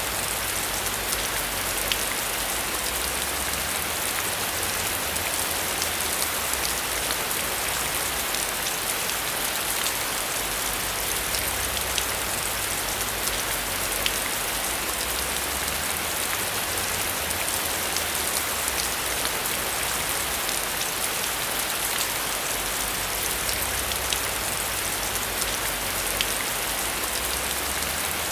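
Heavy rain falling steadily, with scattered sharp taps of individual drops standing out from the hiss.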